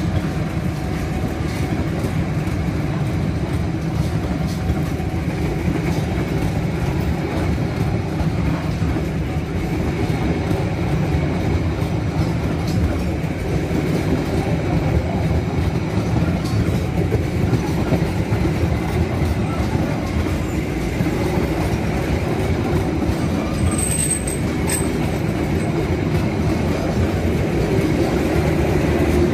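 KAI Premium-class passenger coaches rolling past on the rails: a steady rumble of wheels on track with a faint clickety-clack. Two brief, faint high squeaks come a few seconds before the end.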